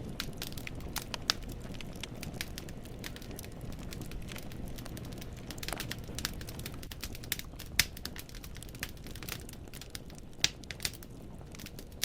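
Wood fire in a fireplace crackling: irregular sharp pops and snaps of burning logs over a low steady rumble of flames, with a few louder pops standing out.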